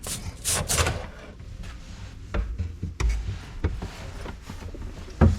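Rubbing and scraping, then a handful of separate knocks and thumps at irregular intervals: hands and tools working under a kitchen sink to get an old faucet loose.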